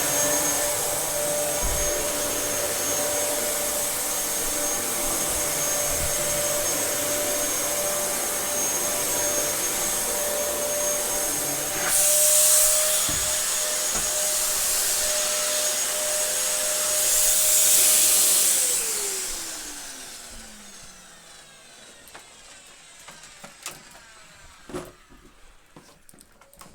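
Dyson DC07 bagless upright vacuum cleaner running steadily with a motor whine and a rushing hiss that grows louder twice. Near the end of its run it is switched off, and the motor winds down with a falling whine, followed by a few light knocks.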